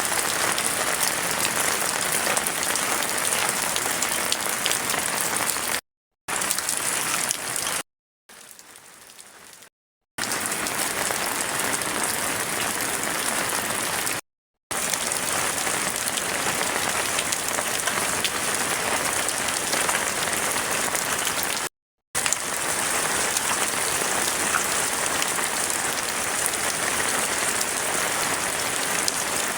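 Heavy rain falling as a dense, steady hiss. It is broken several times by brief silent gaps, with a much quieter stretch about eight to ten seconds in.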